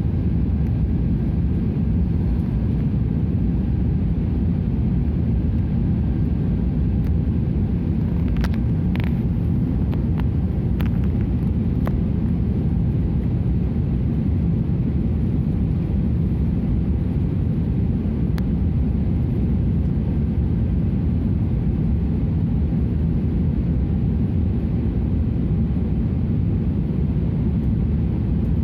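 Steady low rumble of an airliner cabin, with a few faint clicks about eight to twelve seconds in.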